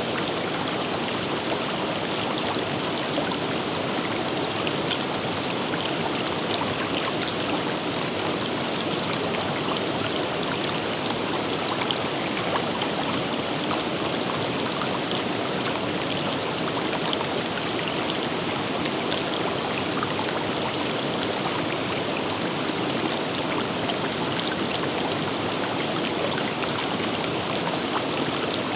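River water flowing and rippling over stones, a steady rushing with small splashes scattered through it.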